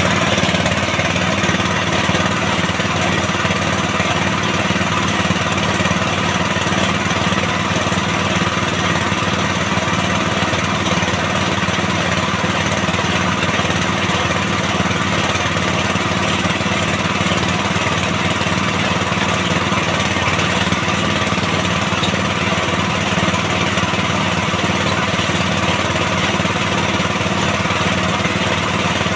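Small engine of a well-drilling rig running steadily under load, with no change in speed.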